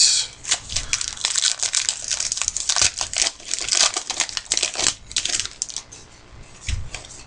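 Wrapper packaging of trading card packs crinkling and tearing as it is opened by hand: dense, rapid crackling for about five seconds, then a few scattered crackles.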